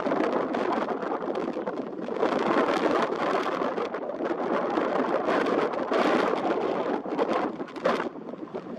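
Strong wind blowing in gusts through reeds, a steady rushing noise that swells and eases.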